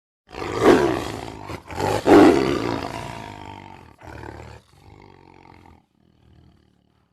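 Tiger roaring: two loud roars about a second and a half apart, followed by three shorter, fainter calls that trail off.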